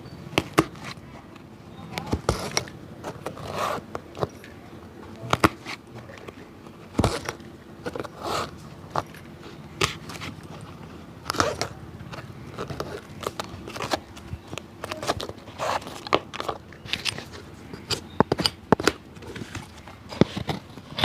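A cobbler working on a shoe by hand: irregular sharp clicks and short scraping strokes, a few each second, with no steady rhythm.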